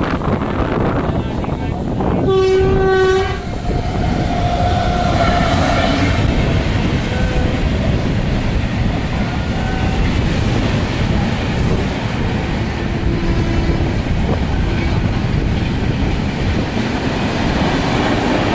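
Suburban EMU electric train running at speed, heard from on board: a steady loud rumble and clatter of wheels on the rails. About two seconds in, a train horn sounds once for about a second.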